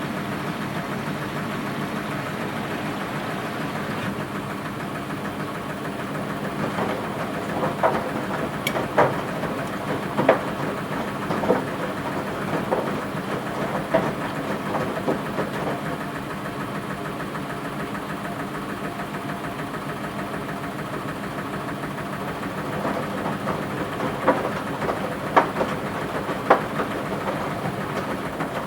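Washing machine running mid-cycle: a steady motor hum as the drum turns, with irregular knocks and clatter in two stretches, the first about a quarter of the way in and the second near the end.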